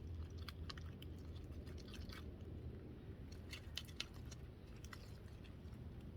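Purple glue slime being stirred in a bowl just after borax activator is added: irregular wet clicks and squelches, bunched together a little past the middle, over a steady low hum.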